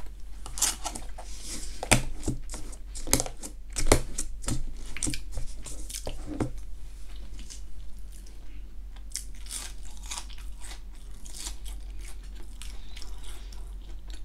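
Close-up crunching and chewing of a breaded onion ring: a run of sharp crunches for the first six seconds or so, a few more a little later, then quieter chewing.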